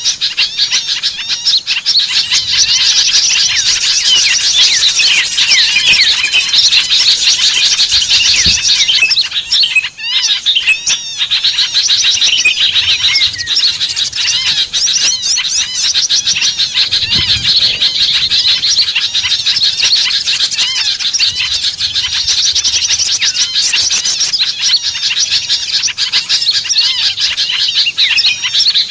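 Many small birds chirping and twittering in a dense, continuous chorus of high-pitched calls, with a brief lull about ten seconds in. This is a bird-lure recording (suara pikat) meant to draw small birds in.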